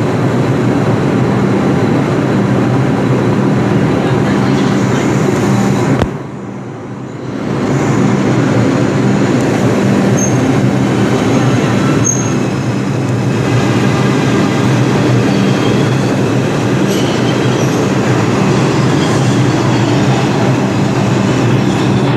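New York City subway train running through the station with a loud, steady rumble of wheels on rails. The noise drops off suddenly about six seconds in and comes back a second or so later, with faint high squeals from the wheels in the second half.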